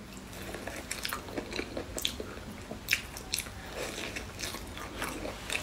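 A person chewing a mouthful of firm, slightly underripe durian flesh: irregular mouth smacks and short sharp clicks.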